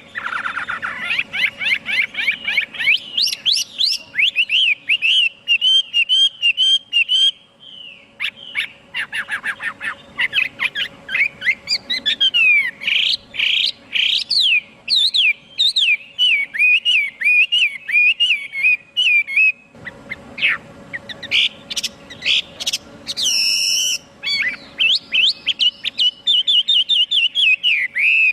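Chinese hwamei singing: a long, loud run of rapid, varied whistled phrases with quick rising and falling notes and fast repeated notes, broken twice by short pauses.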